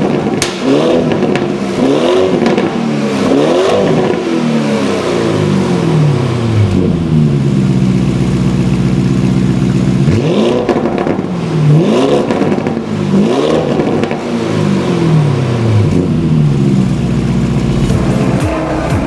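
Lamborghini Urus twin-turbo V8 through a titanium valved catback exhaust, blipped up three times in quick succession, settling to a steady idle, then revved three more times about ten seconds in before dropping back to idle.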